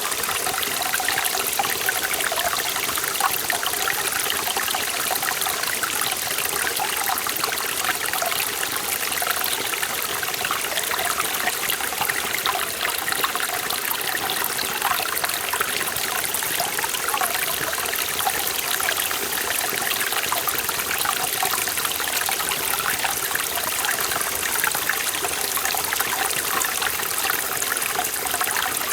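Forest valley stream flowing steadily over rocks, a continuous rush of water with fine bubbling and trickling.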